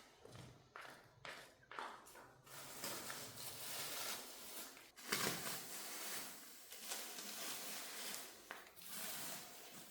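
Light clicks and taps, then from about two and a half seconds in a steady rough rubbing noise with a few stronger strokes, typical of hand work on a hard floor surface.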